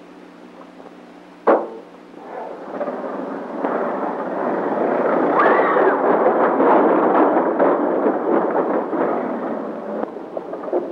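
A sharp bang about a second and a half in, then an old open touring car's engine starting up and running with a loud rattling clatter as the car drives off.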